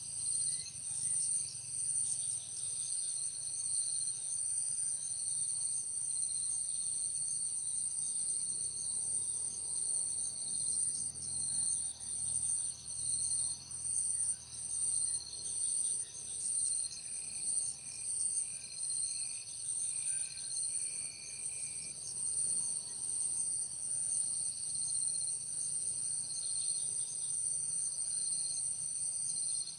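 Steady high-pitched insect chorus of crickets or similar insects, trilling with a slight pulse. A brief run of short chirps comes in about halfway through.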